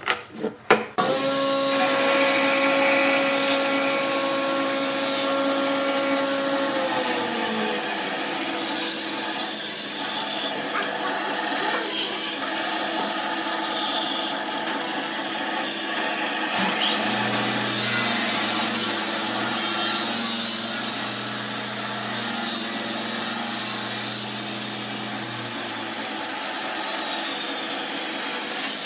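Electric woodworking power tools cutting or sanding wood: a steady motor hum under a rough scraping noise, after a few knocks at the start. The motor's pitch drops about seven seconds in, and a lower hum joins later.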